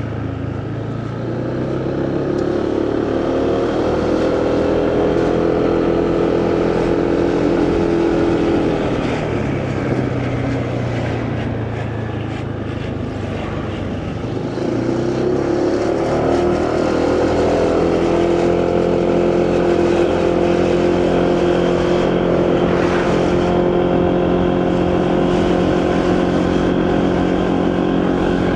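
Motorcycle engine under way with wind noise. It picks up speed and holds, eases off about a third of the way in, then accelerates again and cruises steadily.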